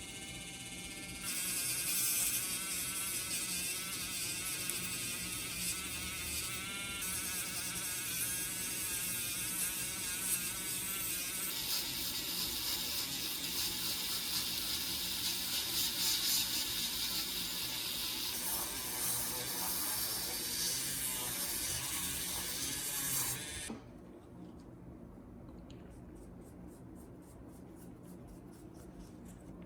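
A handheld power tool running with a high hiss and a wavering motor whine, its pitch shifting as the load changes; it starts about a second in and cuts off suddenly near the end.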